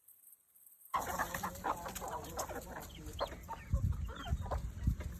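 Chickens clucking with many short calls, starting abruptly about a second in, with a few low thumps near the middle and end.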